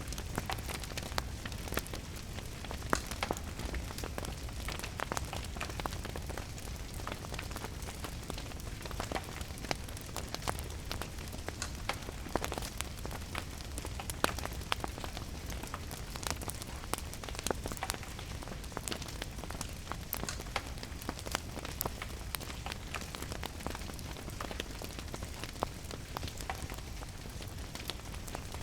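Wood fire crackling with irregular sharp pops and snaps over a steady low rumble, mixed with a constant hiss of rain.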